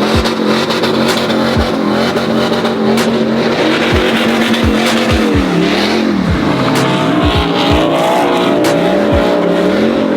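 Vehicle engine held at high revs during a burnout, over the hiss of spinning tires. About halfway through, the revs begin rising and falling about once a second.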